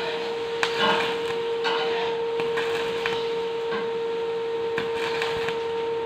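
Arc welding on hollow steel section: the welding arc crackling and sputtering steadily with small irregular pops, over a steady hum.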